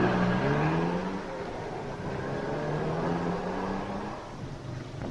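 Car engine accelerating: its tone climbs in pitch twice, with a drop between the rises as if changing gear, over a steady road noise, then fades near the end.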